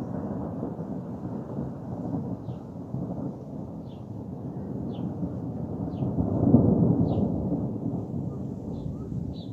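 Thunder rolling in a long low rumble that swells to its loudest about six and a half seconds in, then slowly fades.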